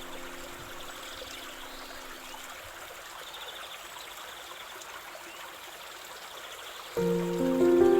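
A steady stream trickling and babbling, with faint high chirps above it. Soft held music notes fade out in the first few seconds, and a louder chord of held notes comes in near the end.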